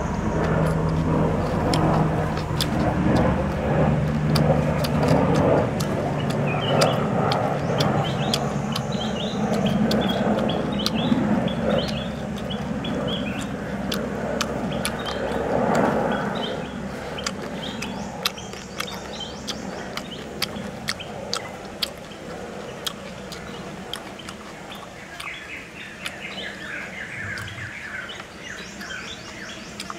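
Close-up chewing and crunching of crispy deep-fried pork, with many sharp crackles and more noise in the first half. Birds chirp in the background, most clearly in the middle and near the end.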